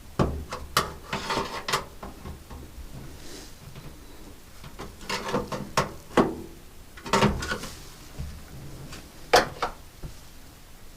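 Irregular clicks, knocks and rubbing of washing machine parts being handled and worked loose during disassembly, in scattered groups with a single sharp knock near the end.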